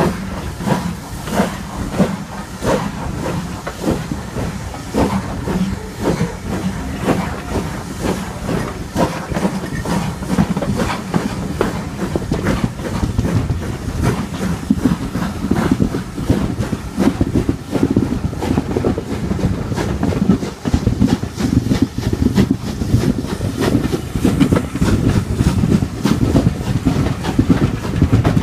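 Steam-hauled passenger train heard from a carriage window as it gets under way, the carriage wheels clicking and knocking over rail joints and pointwork above a continuous running rumble. The rumble is heavier in the second half.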